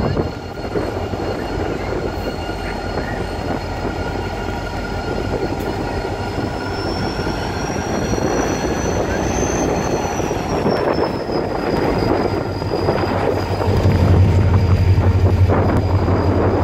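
Pakistan Railways diesel-electric locomotive rolling through a station and passing close, with its train's wheels running on the rails. The deep engine hum grows louder as it draws level near the end, and a thin high whine rises and falls in pitch around the middle.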